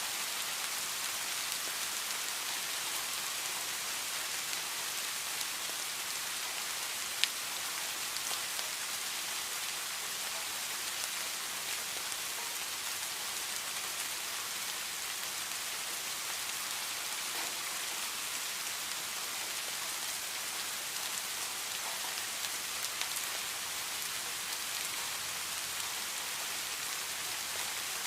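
Heavy rain falling steadily: an even hiss with scattered sharp drop ticks, one clearly louder tick about a quarter of the way in.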